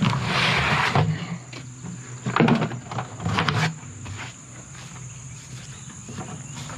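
Insects droning steadily at a high pitch. There is a rustle in the first second and a few short knocks a couple of seconds in.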